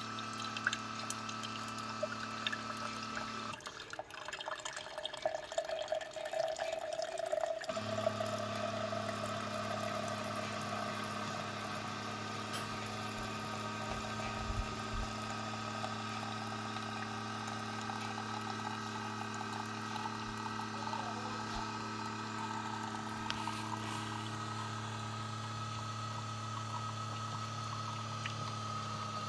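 Keurig K-Compact single-serve coffee maker dispensing hot water: its pump runs with a steady low hum while water pours into the cup. About four seconds in the hum stops for a few seconds of irregular spluttering, then the pump starts again and runs on.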